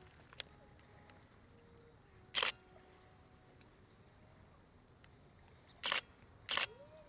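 Nikon D3400 DSLR shutter firing three times: one click about two seconds in, then two more close together near the end. A faint steady high-pitched pulsing tone runs underneath.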